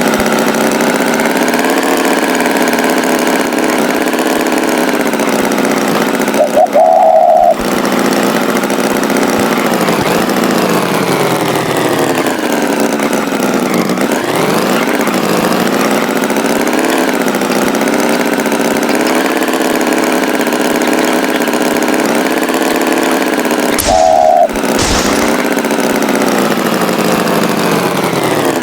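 Tractor engine running steadily, its pitch slowly wavering up and down. Twice, about seven seconds in and again near the end, the engine drops out for a moment under a short, louder high tone.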